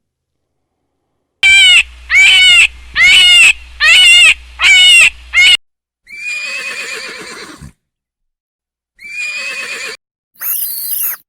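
An animal's high-pitched calls: five short, loud cries with arching pitch in quick succession, then two longer, rougher calls and a brief high squeal near the end.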